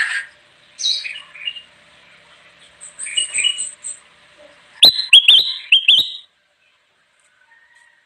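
Kutilang emas bulbul calling in short chirping phrases, with its loudest burst of sharp, rising notes about five seconds in, then falling silent.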